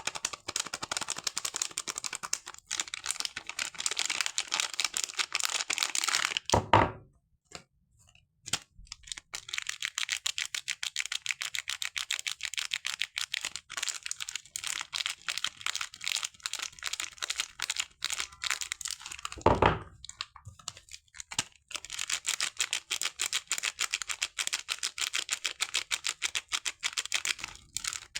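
Dense, rapid crackling and crinkling of soap foam being pressed and peeled close to the microphone, with two louder crunches, one about a quarter of the way in and one about two-thirds of the way in.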